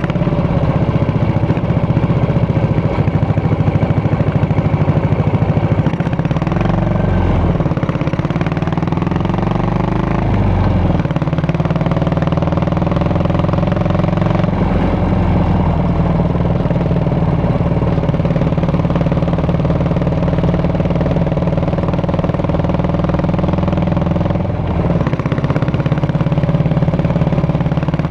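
Yamaha SR400's air-cooled single-cylinder engine and exhaust running. The engine note climbs for a few seconds, drops sharply about eleven seconds in, climbs gently again, and then holds steady with a brief dip near the end.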